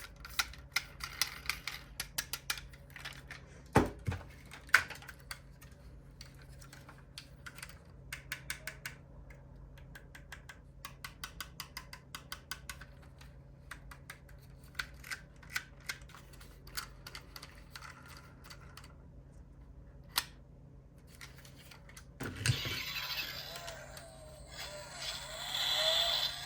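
Diecast model cars being handled: a long run of small metallic and plastic clicks and taps, with a few louder knocks about four seconds in and once more near the end. Near the end a denser rustling, scraping noise takes over.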